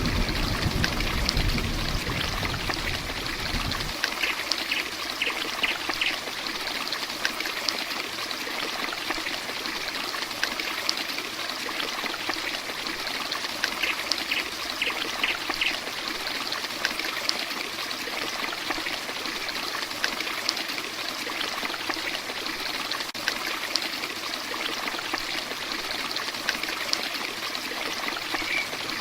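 Heavy rain falling steadily, with water running and dripping and scattered sharp drop ticks. A low rumble underneath stops abruptly about four seconds in.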